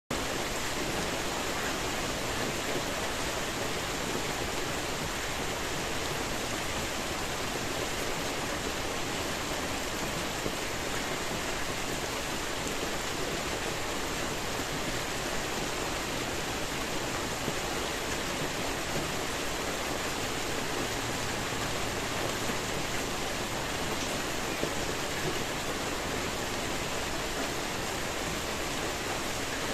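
Steady rain falling: a dense, even hiss with no breaks or single drops standing out.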